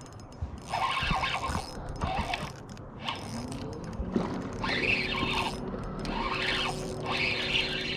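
Fishing reel's drag squealing in several short bursts as a hooked fish pulls line off during the fight.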